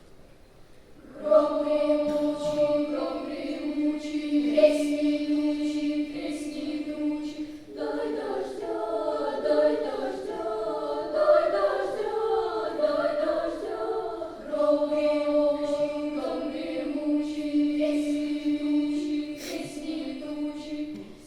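Children's choir singing a folk-style piece, apparently unaccompanied. Voices move over a long held low note, then from about 8 seconds in break into a dense mass of overlapping sliding voices, and return to the held note about 14.5 seconds in, with short sharp accents scattered throughout.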